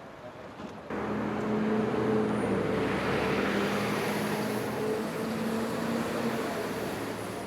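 An engine running steadily with a noisy rumble and a low steady hum, coming in abruptly about a second in.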